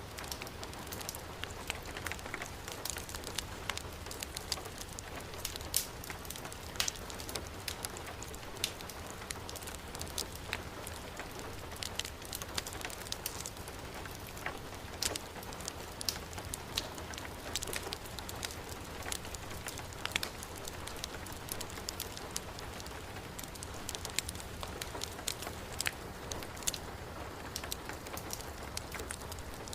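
Heavy rain falling steadily, mixed with a wood fire crackling, giving many short, sharp pops scattered throughout.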